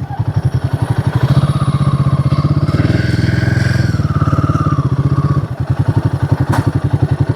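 Motorcycle engine running with an even, pulsing beat, its pitch rising briefly and then falling back about three to four seconds in.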